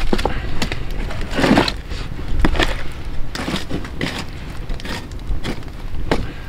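Irregular sharp cracks and knocks of wood, a dozen or so spread unevenly, with a louder cluster about a second and a half in.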